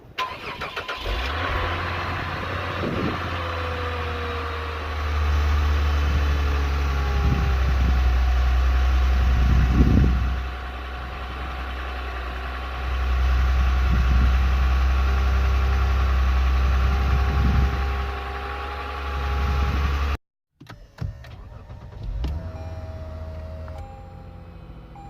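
A 2014 Lexus IS350's 3.5-litre V6 cold-started in sub-zero weather: it cranks briefly, catches about a second in, and settles into a fast cold idle that swells and eases a couple of times. Near the end the sound drops out for a moment and the idling engine comes back quieter.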